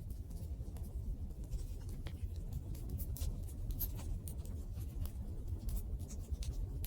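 Campfire crackling: irregular sharp pops and snaps, several a second, over a low steady rumble of burning wood.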